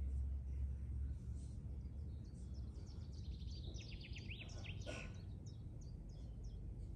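Small birds chirping with short, high notes throughout, and a quick run of sweeping notes in the middle, over a low rumble that eases after the first second.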